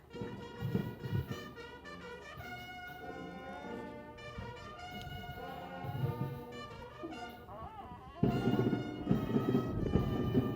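Brass band playing a tune in held, stepping notes, growing fuller and louder about eight seconds in.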